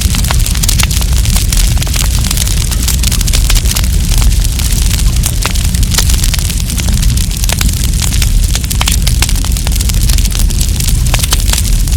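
Wood campfire burning, with frequent sharp crackles and pops at irregular moments over a steady low rumble and hiss.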